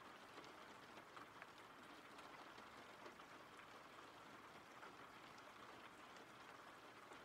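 Faint steady rain: an even hiss with a dense, irregular patter of small drops.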